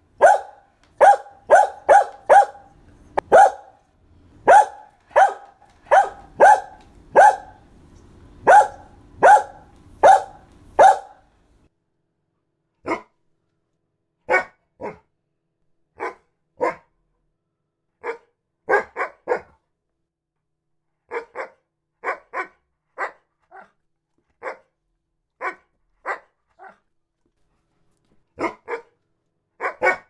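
Dogs barking: a quick run of loud barks, a little over one a second, for roughly the first eleven seconds. After a short gap come quieter barks in spaced-out singles, pairs and threes.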